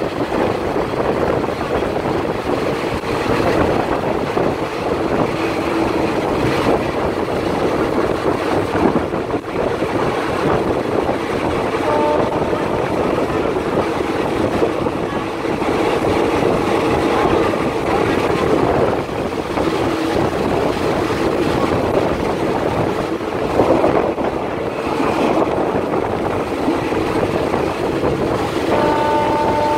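A diesel passenger train running along the line, heard from inside the carriage through an open window: steady wheel and rail noise with rushing air. A short horn blast sounds about twelve seconds in and again near the end.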